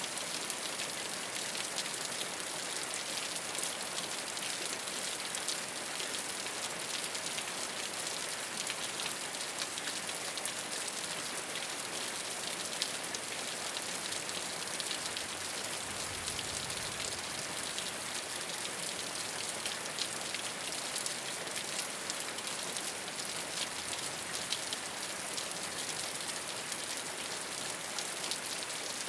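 Steady rain falling on a rooftop: a dense, even patter of drops with many small ticks, and a brief low rumble a little past halfway.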